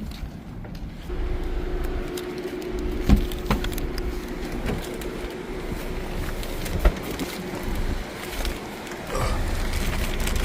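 A car running: a steady hum and low rumble that start about a second in, with a few sharp knocks and clicks over it.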